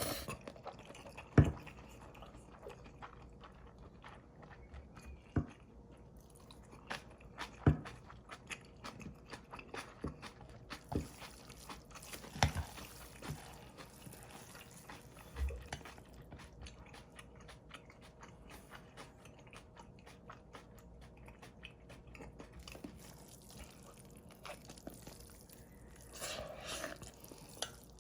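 A person eating cold mixed instant noodles (bibim-myeon) close to the microphone: chewing and mouth sounds with scattered sharp clicks, and a louder stretch of eating noise near the end.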